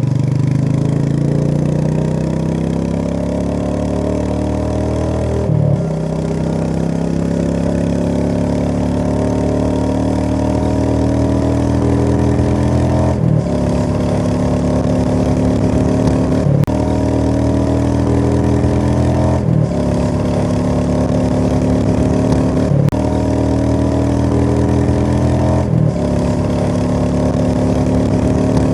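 A vehicle engine running under load. Its pitch climbs slowly, then drops back with a short break about every three to seven seconds, as it accelerates through gear changes.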